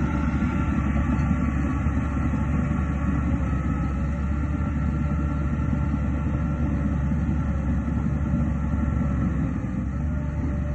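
Heavy diesel earthmoving machinery running steadily: a deep engine drone with faint high whining tones over it.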